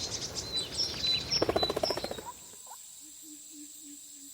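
Small birds chirping in short high notes over a rustling, pattering background; about two seconds in this cuts to a quieter natural background with a steady high tone and a faint low pulsing call.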